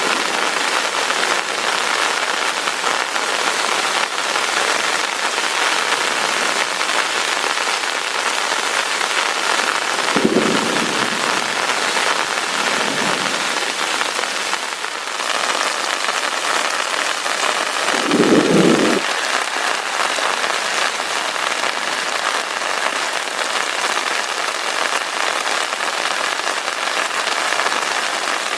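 Heavy rain falling steadily, with brief low rumbles of thunder: two faint ones about ten seconds in and a louder one lasting about a second a little past the middle.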